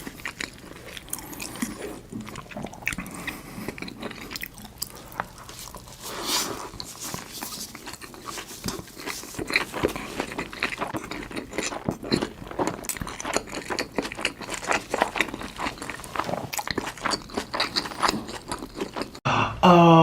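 Close-miked eating: big crunchy bites and chewing, with many small crackles and clicks. Near the end it cuts off abruptly and a voice begins.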